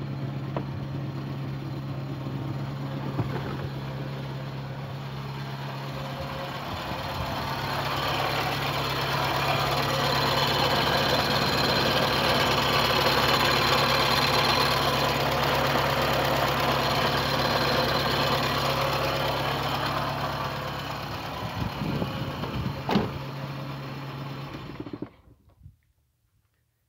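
VW Gol G3's engine running at idle with a strange whirring noise like a worn bearing, which the owner traces to the water pump. It grows louder for a while in the middle, there is a sharp click near the end, and then the sound stops abruptly.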